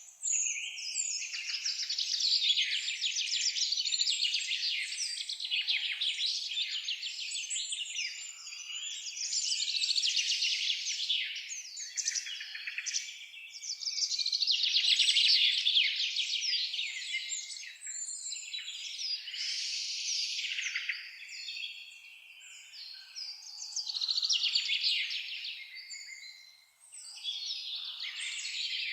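Dense chorus of songbirds, many rapid chirps and trills overlapping throughout, briefly thinning out twice near the end.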